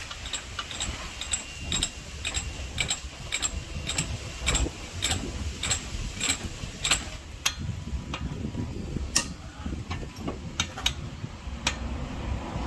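Hand ratchet wrench clicking: an uneven run of sharp metallic clicks, a few a second, over low shop rumble.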